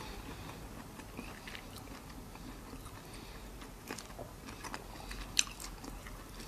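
A person chewing and biting into peeled shrimp close to the microphone: soft wet mouth sounds with scattered small clicks, and one sharp click about five seconds in.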